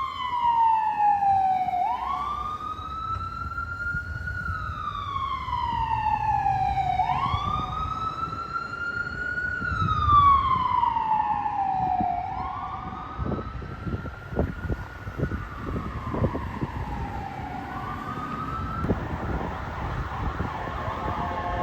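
Emergency vehicle siren on a slow wail, the pitch rising and falling about once every five seconds over a low vehicle rumble. The wail fades after the middle, and near the end a steady chord of several tones comes in.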